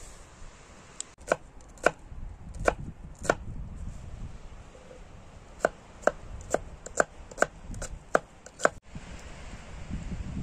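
Chopping wood with a hand tool: about five ringing blows, a pause, then a quicker run of about eight blows at roughly two a second.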